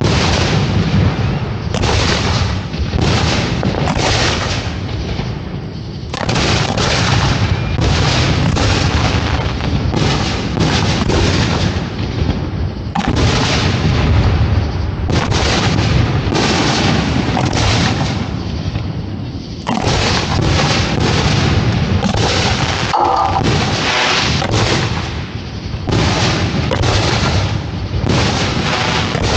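Professional fireworks display firing at close range: a dense, nearly continuous barrage of shells launching and bursting, booms and cracks several to a second, easing only briefly a few times.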